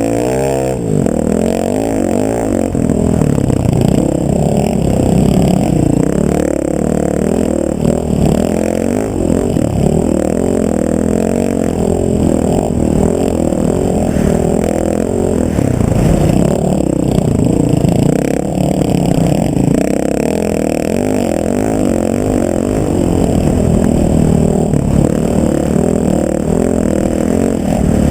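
Engine of an off-road vehicle running steadily on a trail, its pitch rising and falling with the throttle.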